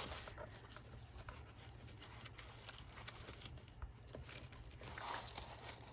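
Faint handling of paper and card: scattered light taps and rustles, with a brief louder rustle about five seconds in.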